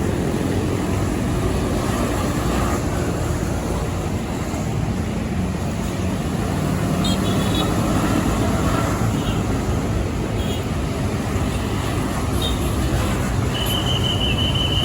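Road traffic with heavy trucks passing: steady engine rumble and tyre noise. A thin, high steady tone starts near the end.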